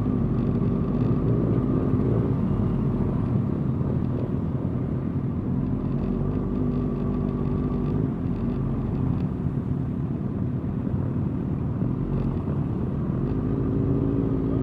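Motorcycle engines running at steady low parade speed, their pitch shifting slightly every few seconds, over a continuous low rumble.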